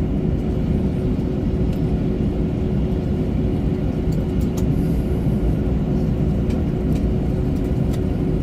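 Steady low rumble and hiss inside an Airbus A321-200's passenger cabin, with a constant hum running under it and a few faint ticks.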